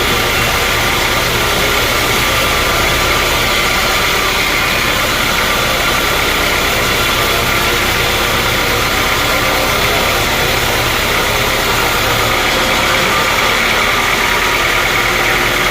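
Sawmill machinery running steadily: a loud, dense mechanical drone with a cluster of steady high tones; the low rumble drops away about twelve and a half seconds in.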